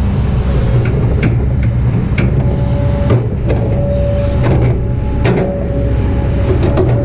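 Kobelco SK200-8 excavator's diesel engine running steadily under working load, with a thin hydraulic whine that comes and goes. Several sharp clanks from the arm and bucket linkage are spread through it.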